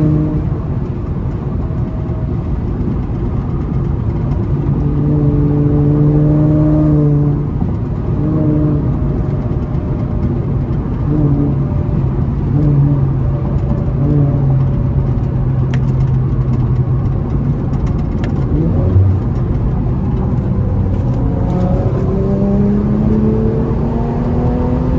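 Infiniti Q50's 3.0-litre twin-turbo V6 pulling steadily at highway speed under road and tyre noise. Near the end the engine's pitch rises steadily as the car accelerates.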